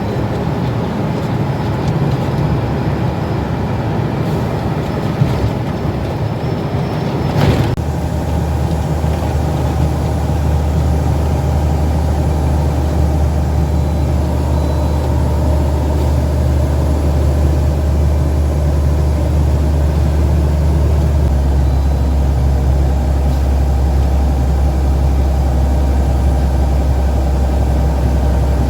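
Truck engine running steadily with a strong low hum, with a brief sharp sound about seven and a half seconds in, after which the hum settles lower and steadier.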